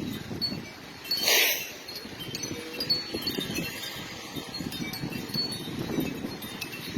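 Wind chimes ringing irregularly in strong gusty wind, with wind rumbling and buffeting the microphone. A brief loud rush of noise comes about a second in.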